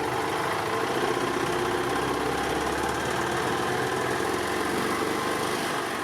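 1997 E-Z-GO TXT golf cart's single-cylinder four-stroke gas engine running steadily. The cart is known to be hard to start, which is typical of valves out of adjustment.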